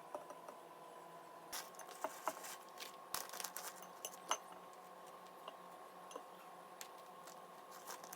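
Scattered light clicks and clinks of small hard objects being handled, busiest in the first half, over a faint steady hum.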